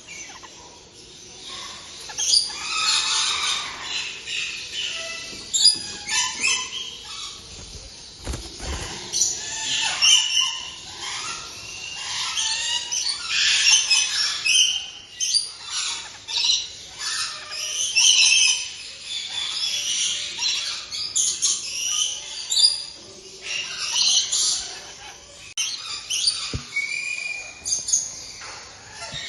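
Caged birds calling throughout, many short squawks and chirps overlapping, which fits the kakariki parakeets and songbirds in the video. There is a low bump about eight seconds in.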